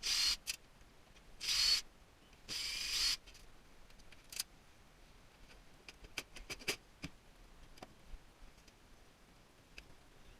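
Hand tools working on the metal parts of a tankless water heater: three short scraping strokes with a faint squeal in the first three seconds, then scattered light clicks and taps.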